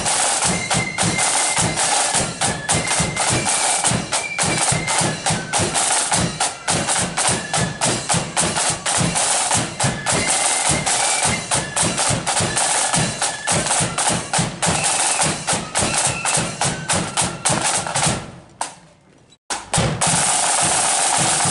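Marching flute band playing: rapid snare drum strokes and bass drum beats under a high flute melody. Near the end the sound drops away for about a second, then comes back as a steady loud din.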